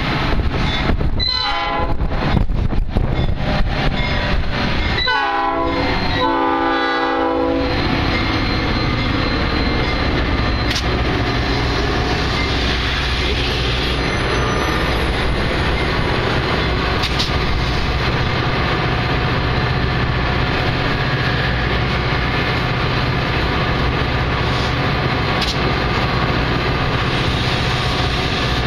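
Metra commuter train's diesel locomotive sounding its horn twice, a short blast about a second in and a longer one about five seconds in. After that comes the steady rumble of the locomotive engine and the train rolling.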